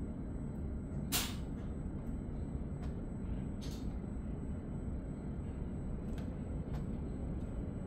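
Inside a Re 450 DPZ double-deck S-Bahn coach running between stations: a steady low rumble of wheels on rails, with a few sharp clicks, the loudest about a second in and another near four seconds.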